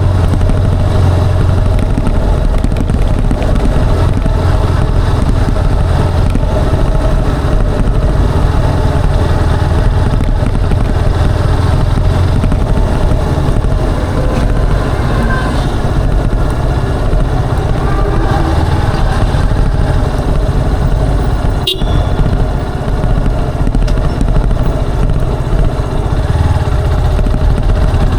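Motorcycle engine and exhaust running steadily under way, with the engine note wavering a little. There is one sharp click about three-quarters of the way through.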